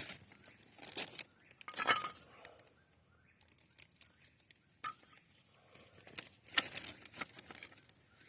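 Irregular snaps, clicks and knocks of dry kindling being handled and added to a campfire, a few strikes spread out with quieter gaps between.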